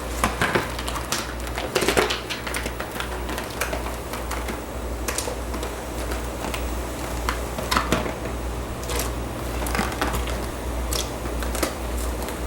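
Irregular clicks, taps and crackles as frozen tortellini go into a pot of boiling water on the stove, over a steady low hum.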